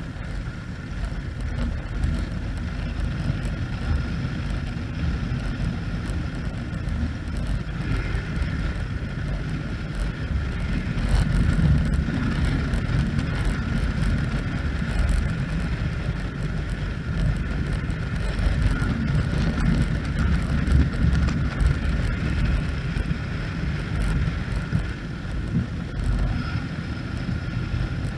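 Motorcycle engine running steadily on the move, with wind rumbling on the microphone.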